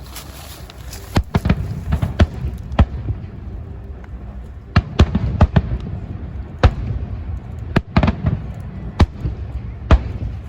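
Fireworks bursting: sharp bangs at irregular intervals over a steady low rumble. They come in two quick clusters, then as single reports about a second apart near the end.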